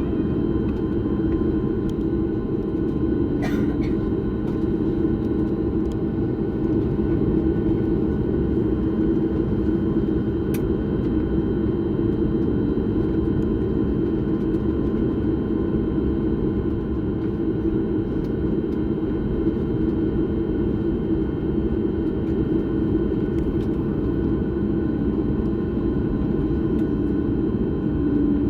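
Steady rumble of an airliner heard from inside the passenger cabin: engines and airflow, with a few faint steady tones over it and a couple of small clicks.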